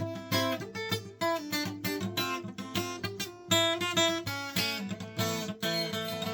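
Acoustic guitar being played, a quick run of picked notes and strummed chords.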